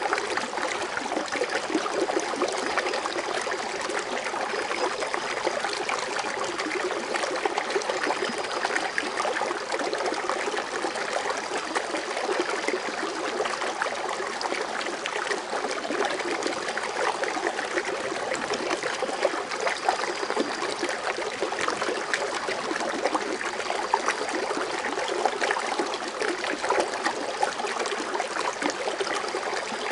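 Water fountain splashing and trickling steadily: water falling back into its basin in a continuous patter of small splashes.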